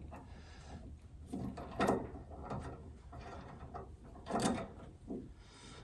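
A few separate metallic clicks and scrapes as a newly fitted linkage on the car is worked by hand. The part is still stiff.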